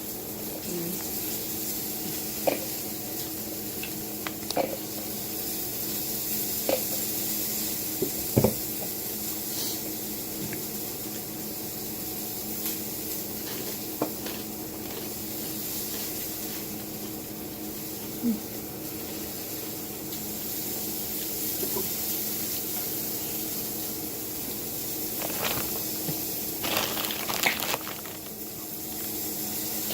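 Steady hiss with a faint hum underneath, broken by scattered light clicks and knocks.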